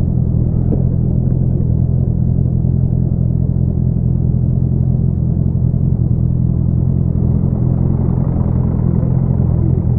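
Honda CBR650R's inline-four engine idling steadily through an Akrapovič single-outlet exhaust, a low even burble with no change in engine speed.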